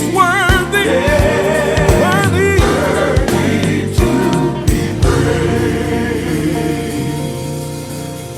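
Gospel song: male voices sing with wide vibrato over drum hits, then the band stops about five seconds in and held chords ring on and slowly fade as the song ends.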